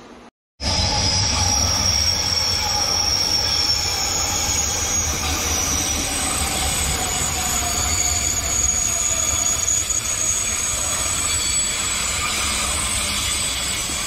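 SBB electric passenger train running past on a curved track, its wheels squealing in high, slowly wavering tones over a steady low rumble. It starts abruptly about half a second in and eases a little near the end.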